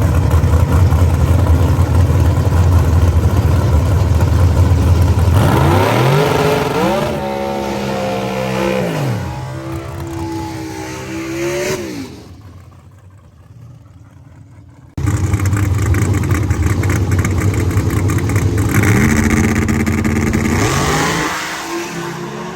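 Drag-race car engines at full throttle: a loud steady rumble, then the pitch climbs in steps through gear changes as a car accelerates away, and fades. An abrupt cut brings in a second loud run with its pitch again rising near the end.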